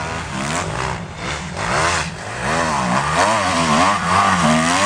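Motocross bike engines revving on the track, their pitch rising and falling again and again with the throttle and gear changes, louder from about halfway in.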